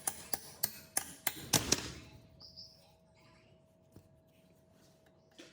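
A quick run of about eight sharp taps or knocks in the first two seconds, then only a faint steady hum.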